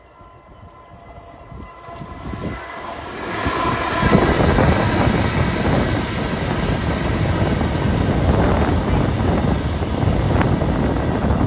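c2c Class 357 electric multiple unit approaching and passing close by, growing steadily louder over the first four seconds, then a steady noise of wheels running on the rails as the carriages go past.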